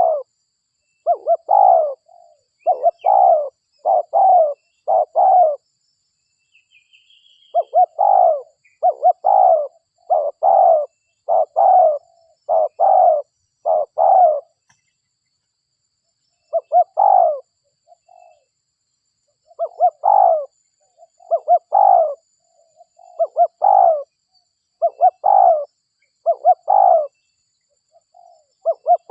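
Spotted dove (derkuku) cooing as a lure call: loud coo phrases repeated about once a second, in runs of five to seven, with pauses of a couple of seconds between runs.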